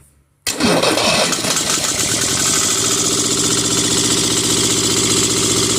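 Yanmar 2210 diesel tractor engine cold-started after flame preheating. About half a second in it cranks and catches abruptly, runs roughly for a moment, then settles into a steady idle.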